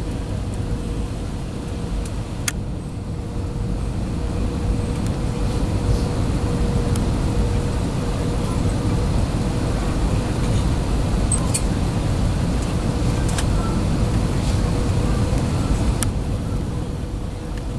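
Jet airliner cabin noise: a steady low rumble with a faint constant hum and a few light clicks.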